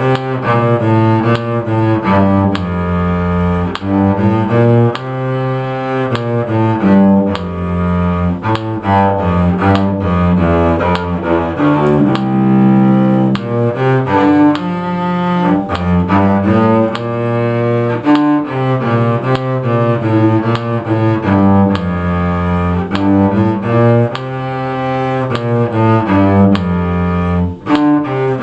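Bowed string music: a melody of short, changing notes over lower sustained notes, with a brief break near the end.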